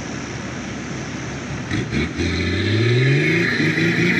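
Four-wheel-drive's engine revving up in soft beach sand. A couple of knocks come just before it, then its pitch rises from about two seconds in and levels off, over a steady noisy hiss.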